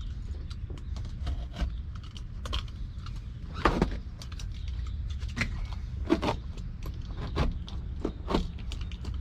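Old carpet being cut with a knife and pulled up off a car's floor pan: irregular scraping, rustling and small knocks, loudest about four seconds in, over a steady low rumble.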